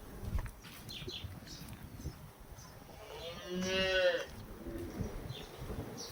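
A cow lowing: one drawn-out moo about three seconds in, lasting just over a second, with faint bird chirps around it.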